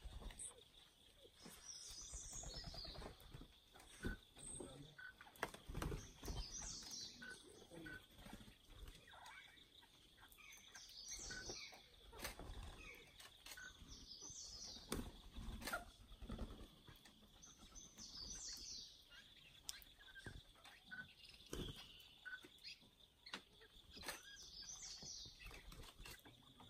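Small birds chirping in short, high, falling bursts every few seconds over a steady faint high hum, with scattered soft knocks and rustles from birds feeding on a gravel wall.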